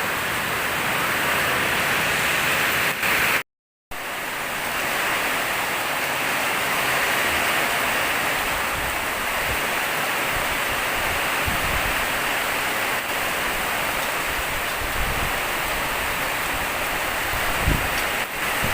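Heavy storm rain pouring, a steady, loud hiss. The sound cuts out completely for about half a second near the start.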